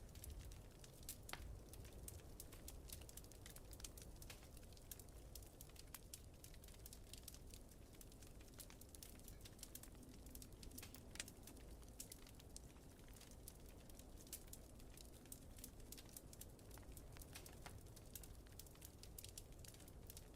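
Wood fire in a fireplace crackling, with many small sharp pops and ticks over a faint, steady low rush.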